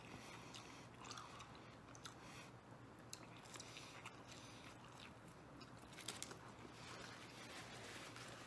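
Faint chewing and biting on a slice of deep-dish veggie pizza, with small, scattered mouth clicks and a few louder ones past the middle. A paper napkin is handled near the end.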